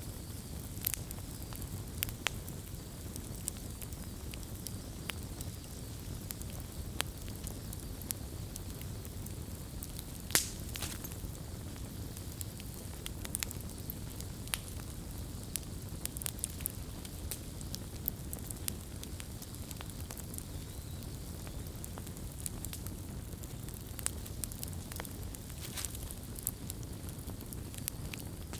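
Wood bonfire burning: a steady low rush of flames with scattered crackles and pops, one sharp pop standing out about ten seconds in.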